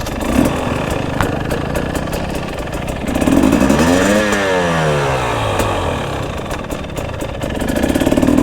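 Dirt bike engine running, revved up about three seconds in and easing back off a second or two later.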